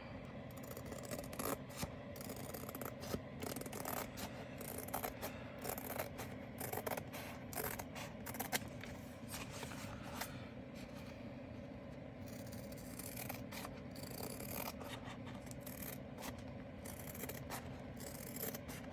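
Scissors snipping off excess black tape along the border of a diamond painting canvas, a long run of short, irregular cuts.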